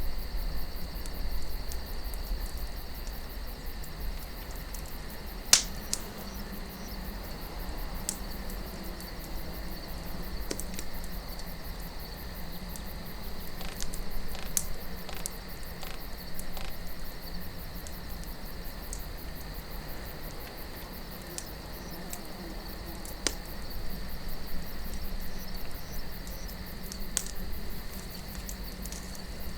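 Wood campfire crackling with scattered sharp pops, the loudest about five and a half seconds in, over a low wind rumble and a steady high cricket trill.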